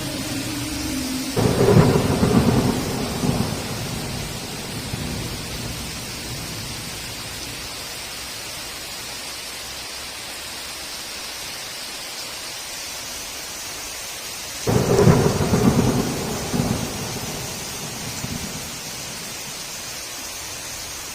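Heavy rain hissing steadily, with two claps of thunder, one about a second in and one about two-thirds of the way through. Each starts suddenly and rumbles for two to three seconds.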